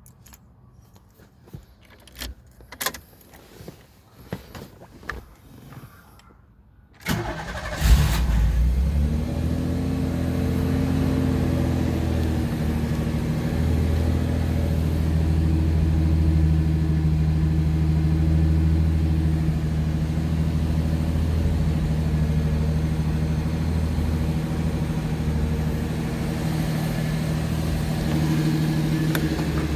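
A few light clicks and knocks, then the Pontiac Fiero's engine cranks about seven seconds in and catches with a brief burst. It settles into a steady cold-start idle.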